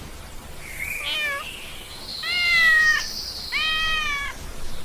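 A cat meowing three times, the middle meow the longest and loudest, over a faint steady background hiss.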